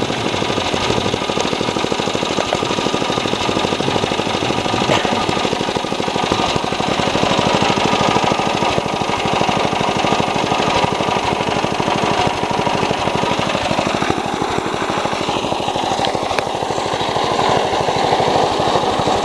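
Riding lawnmower's small gasoline engine running steadily at speed with a fast, even chatter, left running to burn off oil spilled over the engine.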